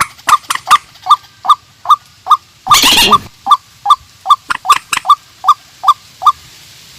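Calls of swamphen and white-breasted waterhen: a rapid series of short, nasal call notes, about two to three a second, with one longer harsh screech about three seconds in.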